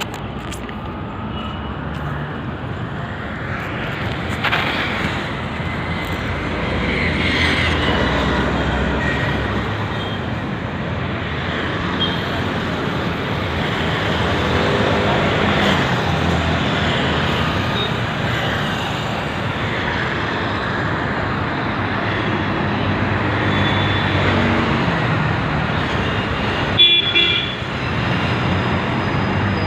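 Road traffic running steadily, vehicles passing one after another, with horns tooting now and then and a sharp, loud toot near the end.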